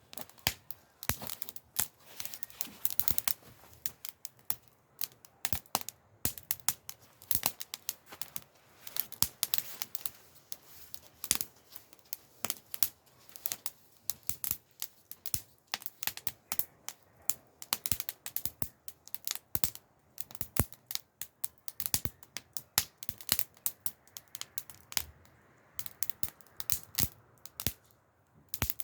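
Wood campfire crackling, with irregular sharp snaps and pops several times a second, some much louder than others.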